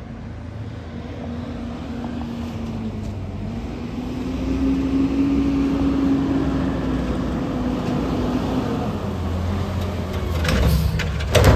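Recycling garbage truck's engine running, rising in pitch and loudness about four seconds in and holding a steady whine for several seconds, typical of the truck working under load. A few sharp metallic bangs near the end.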